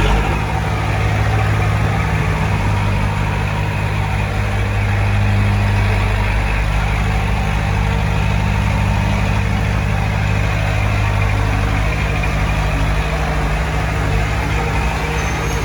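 Heavy diesel engine of construction machinery running steadily, with small shifts in engine speed.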